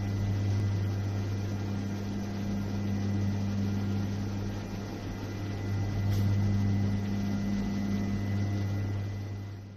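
A steady low electrical-sounding hum under a layer of hiss, fading out near the end.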